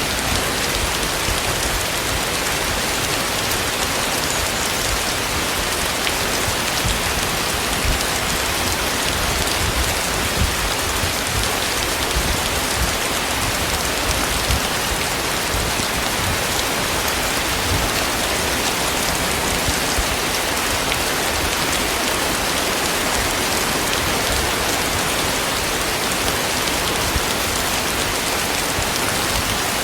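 Heavy rain falling steadily, a dense even hiss with a few louder drop hits here and there.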